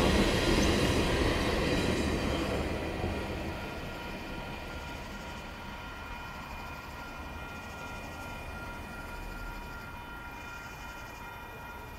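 Freight train cars rolling past a grade crossing, loud at first and fading out within the first few seconds as the end of the train goes by. The crossing's warning bell then keeps ringing steadily.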